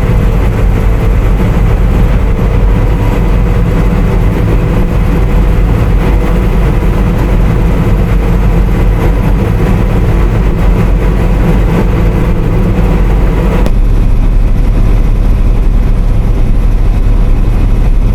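Combine harvester running steadily under load while harvesting wheat: a continuous low engine-and-machinery rumble with a steady whine in it. About three-quarters of the way through, the whine cuts out and the sound drops a little in the upper range.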